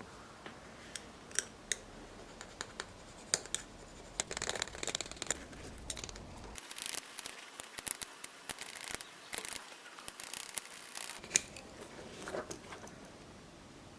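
Small hand tools working a sterling silver chain bracelet while its surface is textured: a string of sharp metallic clicks and scratching, busiest from about four to eleven seconds in.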